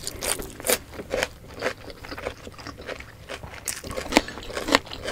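Close-up eating sounds of two people: crisp crunching of raw cucumber slices among wetter chewing of braised pork belly adobo, in irregular crackly bites several times a second.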